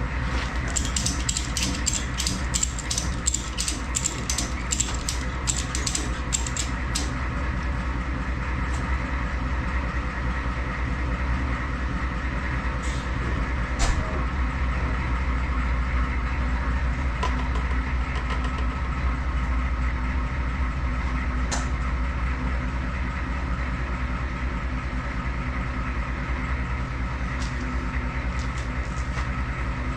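A steady mechanical hum from a running machine. Over it, rapid clicking at about three clicks a second for the first several seconds, then a few scattered clicks and knocks while work goes on with the engine hoist.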